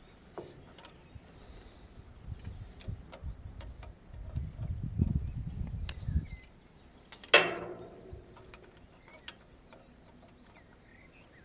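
Scattered small metallic clicks and ticks from hand work on metal parts, with a low rumbling stretch in the middle and one loud metal clank, briefly ringing, about seven seconds in.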